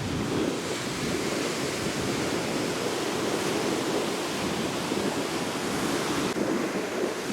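Steady surf from monsoon-driven waves rolling and washing onto a sandy beach, with wind on the microphone.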